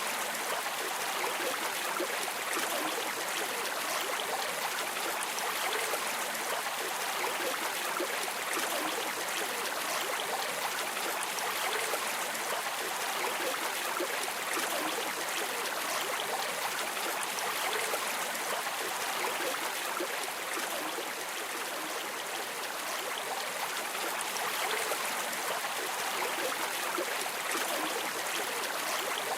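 River water streaming and trickling: a steady, even rushing with no breaks.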